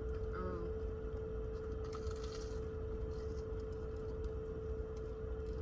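A bite into a fried Korean corn dog, with a short crunch about two seconds in, over a steady low hum with a constant mid-pitched tone.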